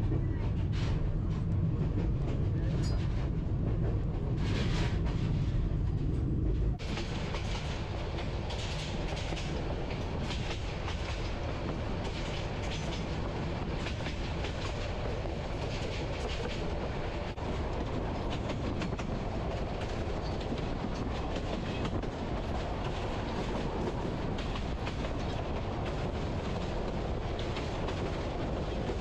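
Bangladesh Railway intercity passenger train running steadily along the track. For the first few seconds it is a low rumble heard inside the coach. About seven seconds in, the sound switches abruptly to a brighter, fuller rush of wheels on rails heard from the open doorway beside the moving carriages.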